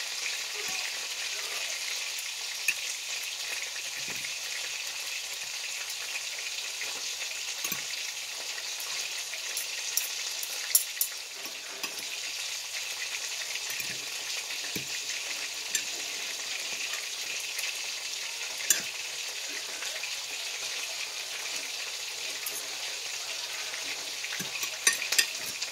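Steady sizzling hiss of food frying, with a few sharp clicks of a metal spoon and fork against a plate as eggplant salad is tossed.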